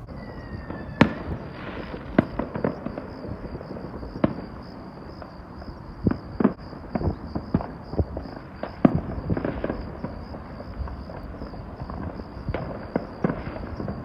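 Many fireworks going off at once: irregular bangs and pops of varying loudness, several each second at times, with no pattern. A steady high trill of crickets runs underneath.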